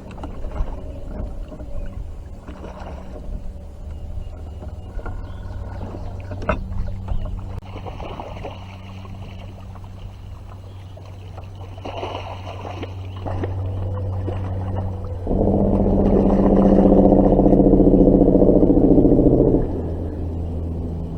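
A motor running steadily with a low hum, growing louder for a few seconds near the end before settling back.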